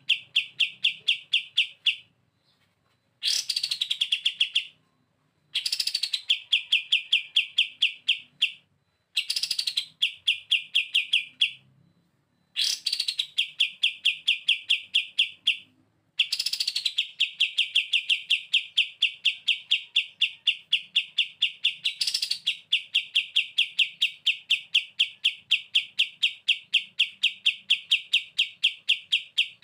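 Kapas tembak bulbul singing its rapid rattling 'bren' trill: phrases that each open with a quick falling note and run into a long string of fast repeated notes, broken by short pauses. The final trill runs on for over ten seconds.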